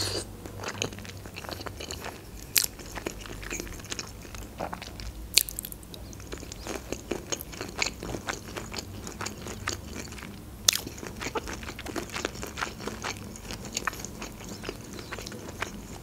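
Close-miked chewing of creamy noodle pasta: a steady run of small wet mouth clicks and smacks, broken by a few sharper clicks.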